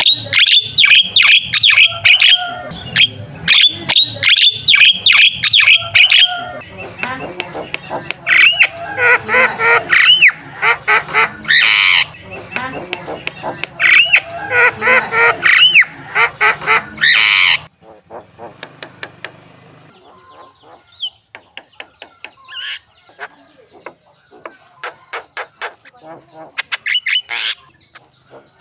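Javan myna singing loudly: fast runs of harsh, squawky repeated notes, then a varied mix of whistles and rasps. About two-thirds of the way through it drops to sparser, quieter calls.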